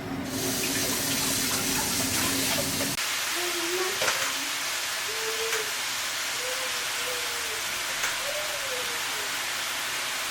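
Hot oil sizzling as chicken fries, a steady hiss. About 3 seconds in, the low rumble drops away and a faint wavering melody runs over the sizzle.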